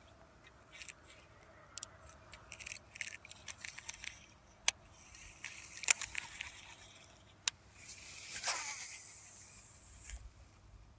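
Small clicks, taps and scrapes of fishing tackle being handled as a plastic worm is rigged, with a sharp click about six seconds in and a brief swish about eight and a half seconds in.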